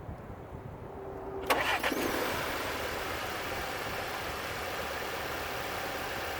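2018 Audi A5 Coupe's 2.0-litre turbocharged four-cylinder engine starting: after a quiet moment it catches suddenly about a second and a half in, then settles into a steady idle.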